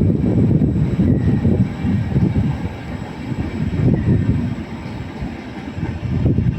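Train passing through a railway station: a loud, uneven low rumble.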